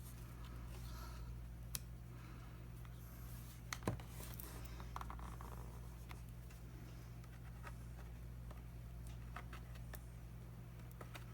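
Plastic spudger scraping and prying at a tablet's plastic back-cover clips: faint scratching with sharp clicks about two seconds in and again about four seconds in.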